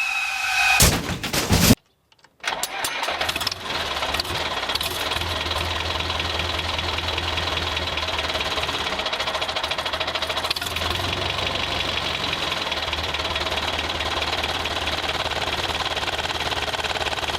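An engine sound starts up after a brief gap about two seconds in, then runs steadily with a rapid knocking rhythm.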